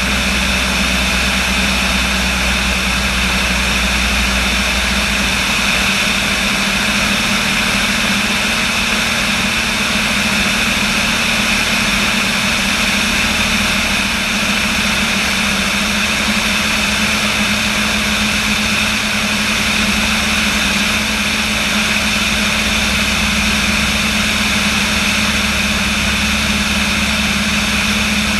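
Light aircraft's piston engine and propeller running steadily with an even drone; the deepest part of the hum drops away about five seconds in, as with a change in power.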